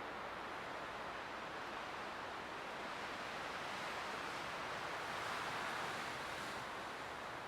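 Light wind blowing steadily, swelling into a gentle gust about five seconds in and easing off near the end.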